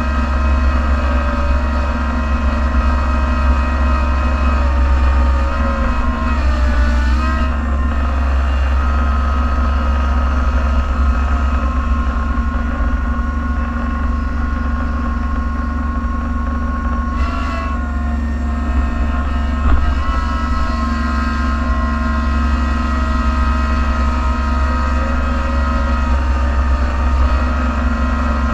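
Engine of a snow-plowing vehicle running steadily, heard from inside its cab: a low drone with a steady whine over it. The engine note shifts briefly twice, about seven and seventeen seconds in.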